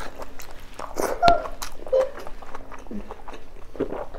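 Close-miked chewing and lip-smacking, with many sharp wet mouth clicks, the loudest about a second in. A few short pitched squeaks come about one and two seconds in.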